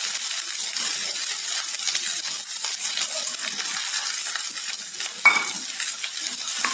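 Diced potatoes, carrots, peas and green beans sizzling as they fry in oil in a metal kadai: a steady hiss. A single metal clink about five seconds in.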